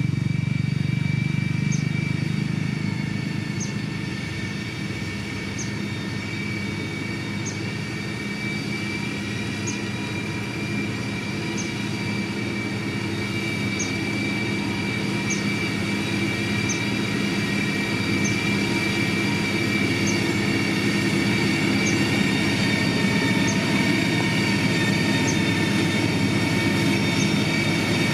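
Heavy road-building machinery running: a steady diesel engine note under a high, steady whine, with a faint tick about every two seconds.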